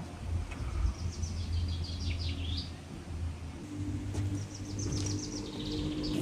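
A songbird sings two short phrases of quick falling notes, about a second and a half in and again near the end, over a steady low outdoor rumble. A low steady hum joins around the middle.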